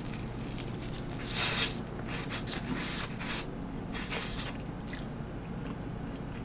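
Close-miked biting and chewing of a piece of gorgonzola pizza folded around tteokbokki: a run of short, irregular noisy chewing sounds, heaviest about a second and a half in and again around three seconds.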